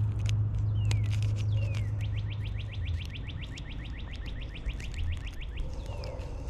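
A songbird singing: a couple of single down-slurred notes, then a rapid trill of short down-slurred notes, about ten a second, lasting some three and a half seconds. Under it there is a low steady hum that fades out about three seconds in, with scattered light clicks.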